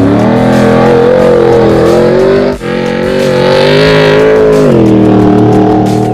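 Stadium Super Truck's engine running hard under throttle, its pitch wavering, with a sudden brief break about two and a half seconds in and a drop in pitch near the end.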